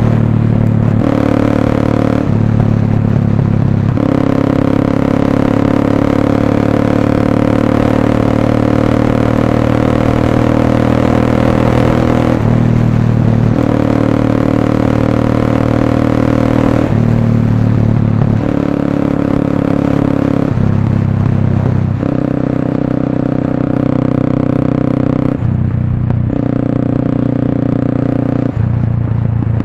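Motorstar Cafe 400's single-cylinder engine running through an SC Project slip-on exhaust. The exhaust note holds steady for a few seconds at a time, then breaks off and jumps to a new pitch about a dozen times, as at gear changes.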